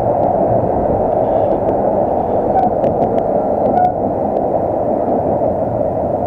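Tram running, heard from inside the car: a steady noise with scattered faint clicks, easing slightly about four seconds in.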